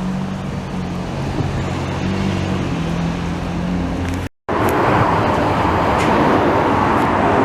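Road traffic noise: a steady low engine hum whose pitch drifts slowly, then after a sudden cut about four seconds in, a louder, even rushing roar.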